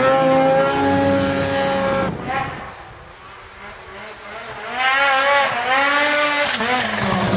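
Snowmobile engine revving in two bursts of throttle, its pitch rising and falling each time, with a quieter, lower stretch in between.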